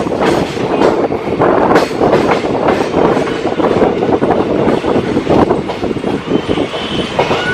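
Passenger train running on the rails, with a dense, loud clatter of wheels and carriages. A thin steady tone comes in near the end.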